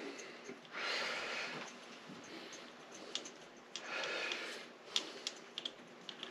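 A person breathing out heavily twice, about three seconds apart, with a few faint clicks in the second half.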